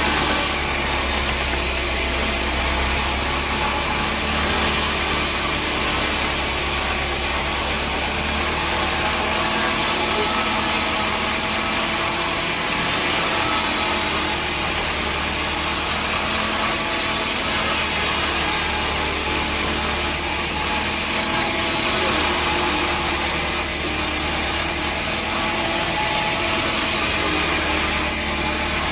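Sawmill saw cutting through a teak log, a steady continuous cutting noise over the hum of the mill's machinery.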